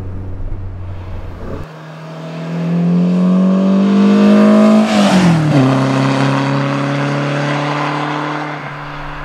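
Lotus Elan's four-cylinder engine: a steady drone from inside the cabin, then, heard from the roadside, the car accelerating hard toward the listener with the engine note rising and growing louder. Its pitch drops sharply as it passes about five seconds in, and it runs on at a steady lower note while fading away.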